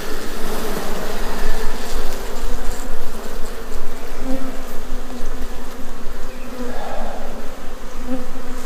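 Honeybees buzzing densely around an open hive: a loud, steady, wavering drone of many bees at once.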